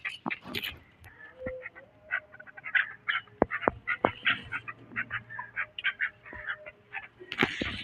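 Birds calling with a rapid, irregular run of short repeated calls, with a few sharp clicks among them.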